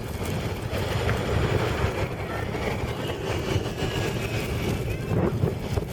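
Gusty wind buffeting the microphone in a steady low rumble.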